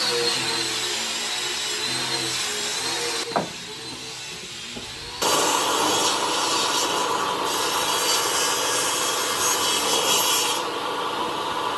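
Power tool working wood, a rasping cut with a motor whine under it. The sound changes abruptly a few times as short clips of the work are cut together.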